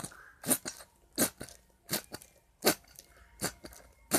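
Glue-based slime mixture being stirred in a container, with a sharp wet click or squelch on each stroke, about one every 0.7 seconds, each followed by a smaller one.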